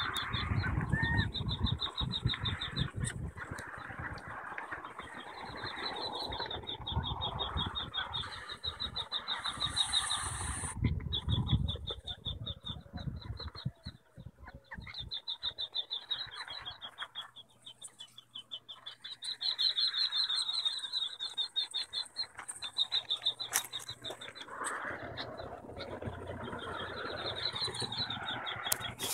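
A calling animal's rapid, high-pitched trills, repeating in bouts of a second or two, with a low rumble of wind or handling noise through roughly the first half.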